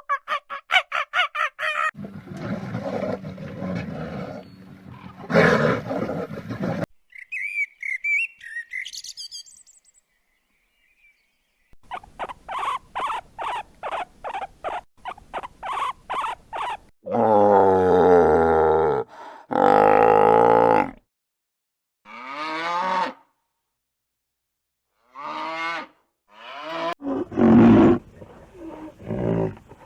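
A run of different animal calls one after another with short gaps: fast repeated calls, high chirps, an even string of about three calls a second, then long loud calls and more calls near the end.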